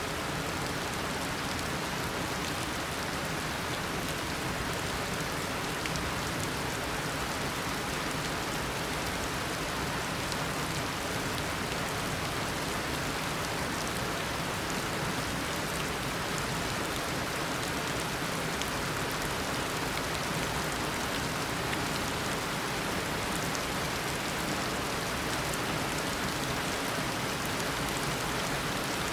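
Steady heavy tropical rain, an even hiss of rainfall with many fine drop ticks.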